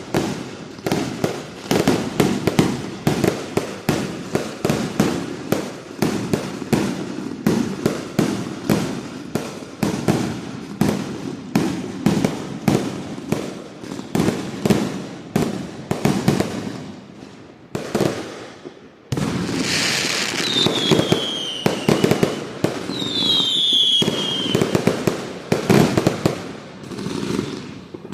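A 400-shot firework cake firing a rapid string of shots, several a second. About two-thirds through, the shots give way to a steady hiss with two falling whistles, then the rapid shots resume.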